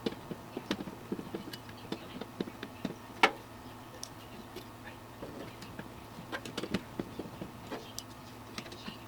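Hands working on a computer case and its fans: scattered light clicks and taps of plastic and metal parts and screws, with one sharper click about three seconds in.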